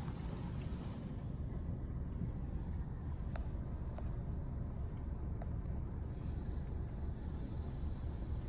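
Car engine idling with a steady low rumble, a few faint clicks, and a brief hiss about six seconds in.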